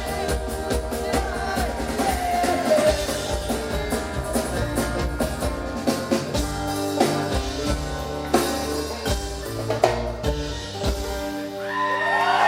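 Live band playing the close of a fast rock song, with drum kit hits prominent. The music drops away about eleven seconds in and crowd cheering starts to rise.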